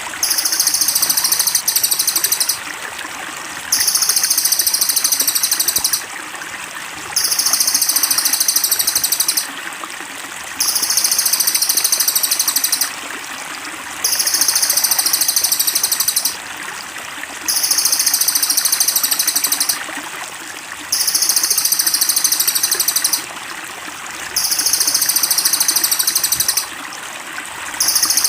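Looped songbird master recording: a shrill, very high-pitched song phrase about two seconds long, repeated evenly every three and a half seconds, over steadily trickling water.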